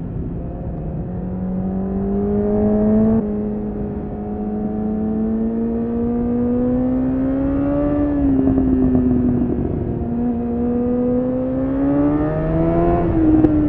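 Honda CBR1000RR Fireblade's inline-four engine pulling under way: its pitch climbs steadily, then drops back at each gear change, several times, over a steady rush of noise.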